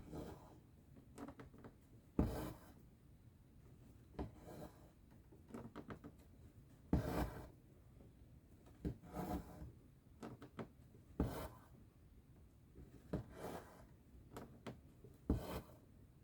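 Cross-stitching: a needle pushed through the stitching fabric and the thread drawn after it, making short rasping strokes at an uneven pace every second or two. A few strokes start with a sharper tap.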